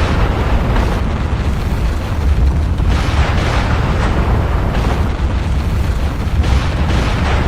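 Volcanic eruption: a continuous deep rumble, with surges of rushing noise about half a second, three seconds and six and a half seconds in.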